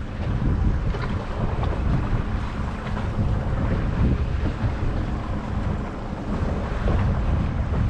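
Wind buffeting the microphone aboard a boat under way, over a steady low rumble of the boat's engine and water.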